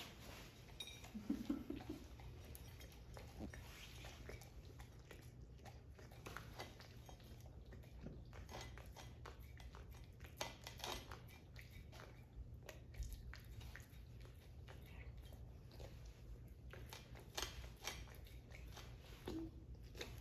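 Siberian husky chewing a crunchy treat: faint, irregular crunches and clicks, with a brief low vocal sound about a second in.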